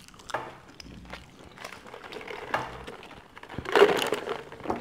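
Eating sounds at the microphone: chewing and crunching of fried food, with scattered small clicks and crinkles and a louder burst about four seconds in.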